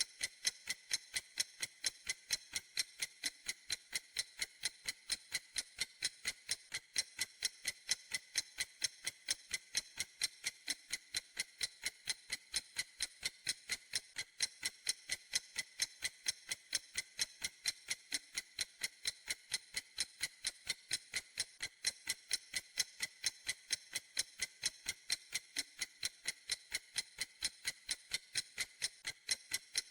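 Clock ticking steadily, with sharp, evenly spaced high ticks several times a second.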